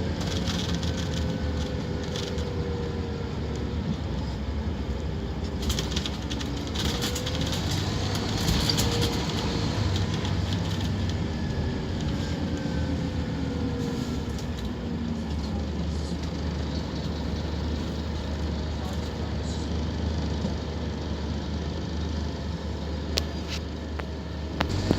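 Scania K230UB Omnilink bus engine and driveline running under way, with a steady low drone and a whine that rises and then drops several times as the automatic gearbox changes up.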